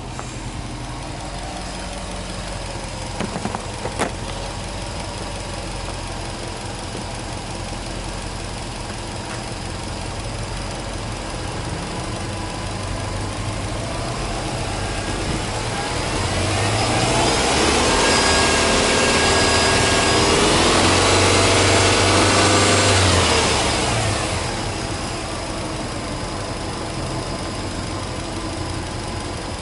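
Subaru Legacy 2.0GT spec B's EJ20 turbocharged flat-four engine idling, then revved and held at raised revs for several seconds near the middle before dropping back to idle.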